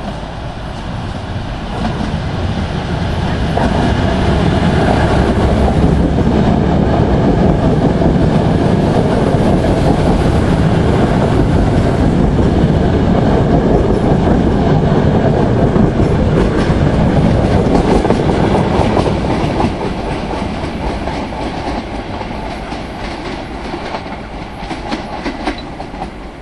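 Diesel multiple unit passing close by: its engine and wheels on the track build up, run loud for some seconds as it passes underneath, then fade. The wheels click over rail joints as it goes.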